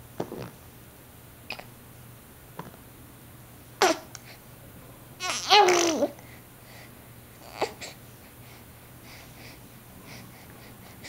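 Baby babbling and squealing in a few short vocal sounds a couple of seconds apart, the longest and loudest about halfway through, with faint wet mouth noises from sucking on her fists in between.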